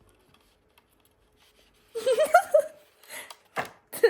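A short giggle of a few quick bouncing syllables about two seconds in, followed by a few short, sharp handling noises.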